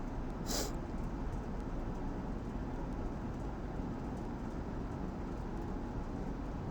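Steady low background rumble, with one brief hissing noise about half a second in.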